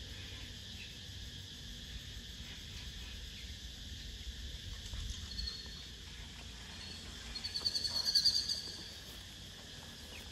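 Birds calling over a faint steady insect buzz and a low rumble: a short high chirp about halfway through, then a fast run of high chirps near the end.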